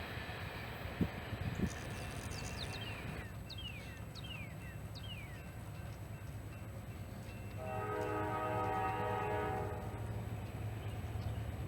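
Diesel locomotive horn giving one steady blast of about two seconds, a little past the middle, over a low steady rumble. Earlier, four short falling whistles are heard.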